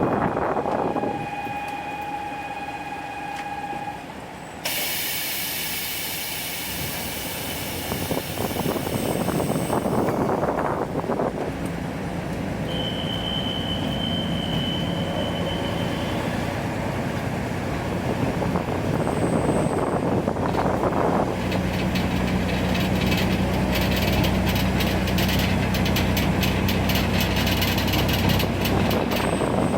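Diesel railcar train in its cab: a loud hiss of air starts suddenly about five seconds in, then from about twenty seconds in the diesel engine runs with a steady low drone and fast rattling as the train gets under way.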